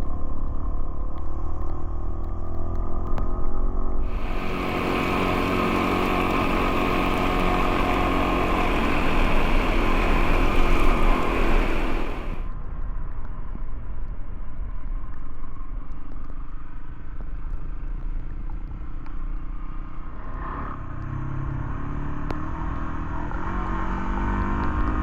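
Dual-sport motorcycle engine running under way, its pitch rising and falling with the throttle, over a steady low rumble. About four seconds in, a loud hiss starts suddenly, joins it for about eight seconds, then cuts off abruptly.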